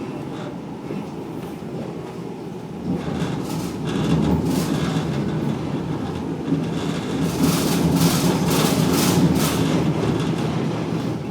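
Tram running on rails, heard from inside the car: a steady rumble that grows louder about three seconds in, with repeated clacking and rattling of the wheels over track joints, heaviest in two clusters, the later one near the end.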